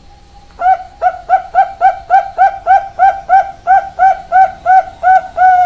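Zebra dove (perkutut) singing: a rapid run of more than a dozen short coos, about three to four a second, starting about half a second in.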